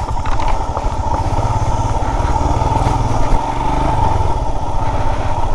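Motorcycle engine running at low revs with a fast, even beat, as the bike is ridden slowly down a rough dirt trail.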